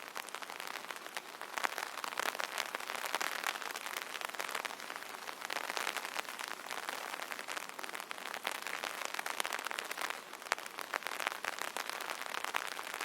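Steady rain drumming on an umbrella canopy: a dense patter of many small drop strikes that swells and eases every few seconds.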